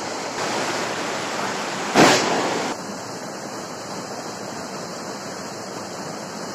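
Steady rushing noise of river water flowing, with a short, louder rush about two seconds in, after which the sound drops slightly.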